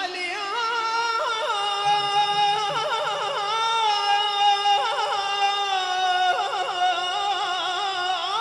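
A solo singer holds a long wordless note in an Iraqi religious song praising Imam Ali. The note is decorated with quick trills and slides, in the ornamented style of a mawwal.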